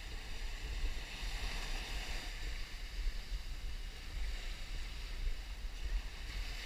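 Wind buffeting the camera's microphone in an uneven low rumble, over the steady hiss of surf washing on the beach.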